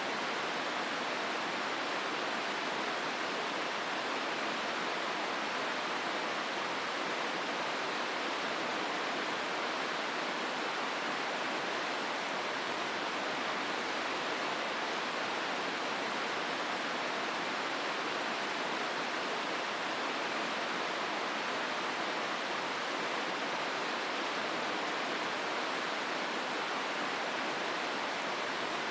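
Hozu River rushing through the gorge: a steady, even roar of flowing water with no breaks or changes.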